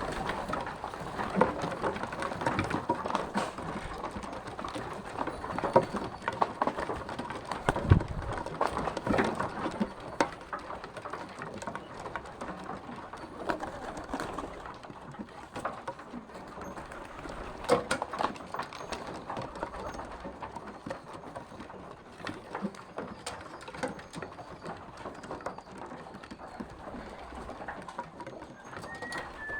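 Birds moving about at close range: an irregular patter of taps, scuffles and rustling.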